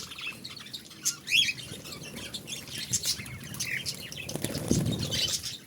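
Budgerigars chirping and chattering: a stream of short, high chirps, with a brief low rustling sound a little over four seconds in.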